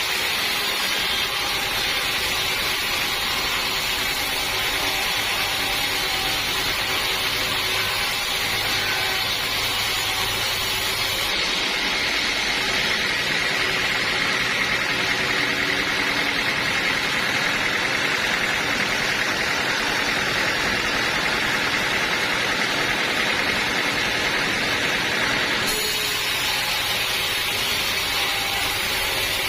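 Band sawmill running steadily with a continuous mechanical noise, typical of sawing a teak log. The high hiss dulls from about a third of the way in until near the end, then comes back.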